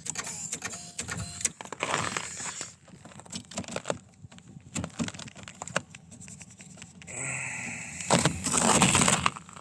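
Clicks and metallic rattling as jumper clamps and cables are handled and fitted onto a snowmobile's starter relay and ground. A short steady buzz comes about seven seconds in, followed by a loud rushing noise near the end.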